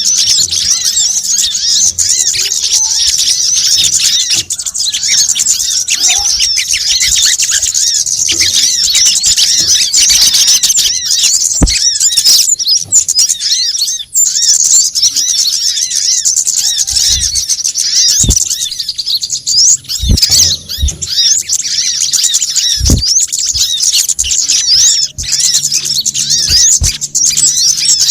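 Sunbirds (kemade, sogon and kolibri kelapa) twittering in a dense, busy chorus of rapid high-pitched chirps, a looped lure call meant to draw these birds in. A few brief low thuds sound under it.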